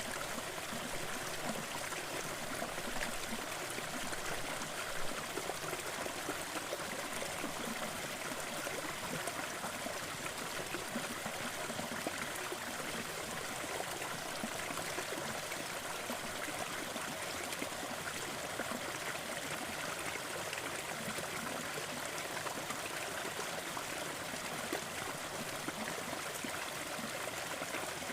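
Small forest waterfall and stream running, a steady even splashing and trickling of water.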